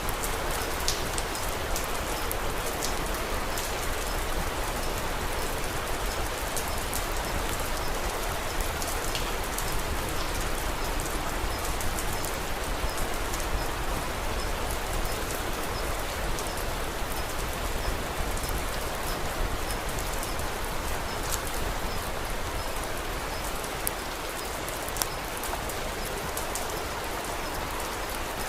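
Steady rain falling, with scattered sharp crackles from a wood fire over it.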